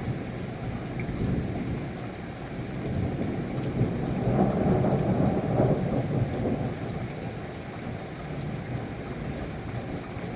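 Steady rain with a rumble of thunder that swells about halfway through and dies away.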